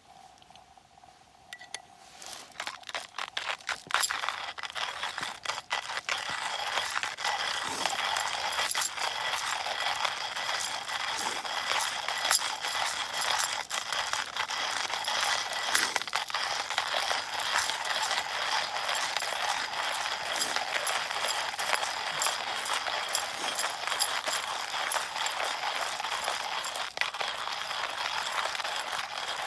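Hand-cranked coffee mill grinding beans: a dense, steady crunching and clicking that starts about two seconds in and keeps going.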